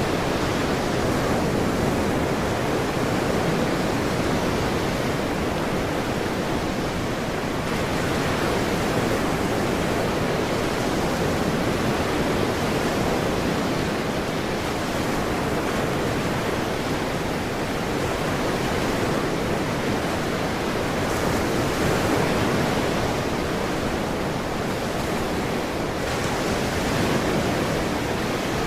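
Ocean surf washing steadily, with slow, gentle swells in loudness and no distinct breaking crashes.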